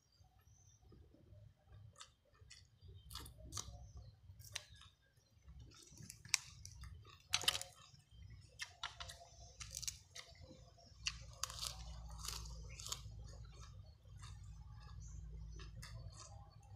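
A person chewing food close to the microphone, with crisp crunches scattered irregularly through, the loudest about seven and a half seconds in. A low rumble runs underneath, stronger in the second half.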